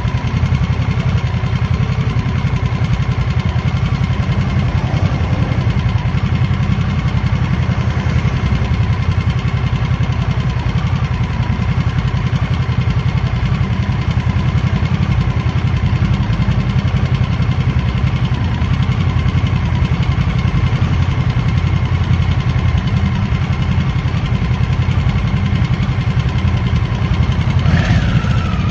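2023 Harley-Davidson Nightster's liquid-cooled 975 cc V-twin running steadily while the bike cruises. Near the end the pitch rises and wavers and it gets slightly louder.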